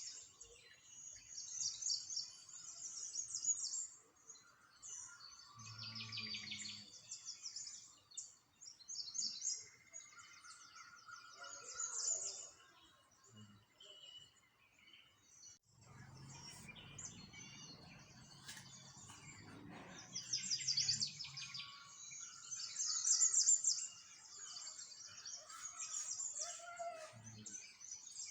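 Small songbirds chirping and twittering in quick high trills, several calling over one another. A low rumble sits beneath them for a few seconds midway.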